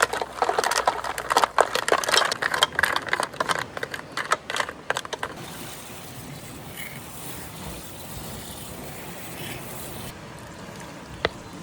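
A tomato, onion and garlic refogado sizzling and crackling in a pan as it is stirred, for about five seconds. Then a quieter steady rushing noise, with one sharp click near the end.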